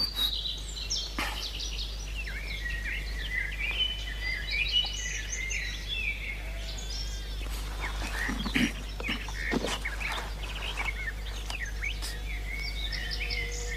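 Several birds chirping and singing, many short overlapping calls and quick whistled glides, over a steady low hum. A few brief rustling sounds come about eight to ten seconds in.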